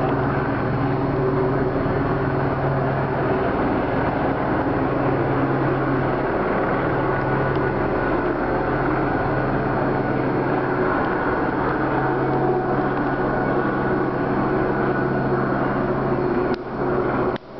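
Police helicopter flying overhead, its rotor and engine making a steady loud drone; the sound dips briefly near the end.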